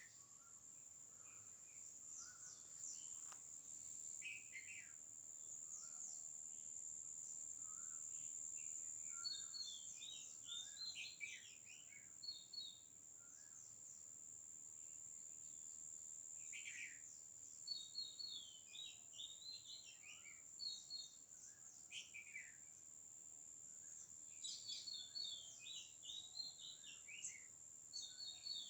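Tropical garden dawn chorus: many birds calling and singing in short repeated phrases, among them oriental magpie robin, red-vented bulbul, purple-rumped sunbird and white-breasted kingfisher. A constant high-pitched insect buzz runs beneath them.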